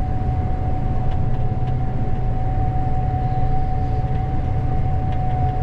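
Gleaner S98 combine running, heard from inside the cab: a steady low drone with a constant high whine held over it.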